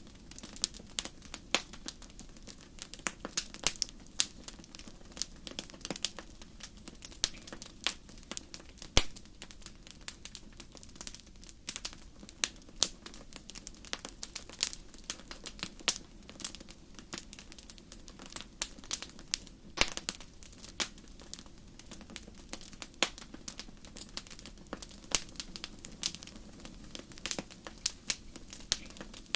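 Wood fire burning, crackling with many sharp irregular pops and snaps, several a second, over a steady low rushing hiss.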